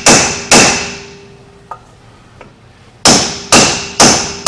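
Hammer blows on the seized wheel hub assembly of a Dodge Ram 1500, the steel ringing after each strike: two blows about half a second apart, a pause, then three more at the same pace. The hub is stuck fast and will not come out.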